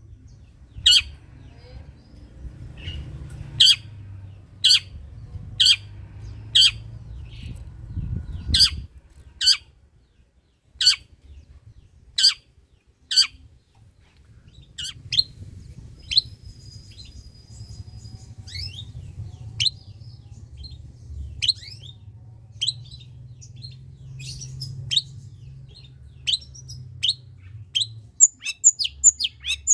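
Long-tailed shrike (cendet) giving sharp, harsh calls about once a second, then a looser run of varied chirps and a quick series of calls near the end, over a low background rumble.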